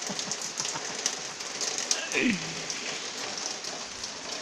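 Steady rain falling on a surface, an even hiss with scattered drop taps. About two seconds in, a short voice sound slides down in pitch.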